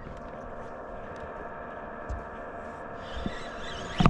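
A small electric motor running steadily with a constant whine, with a sharp knock near the end.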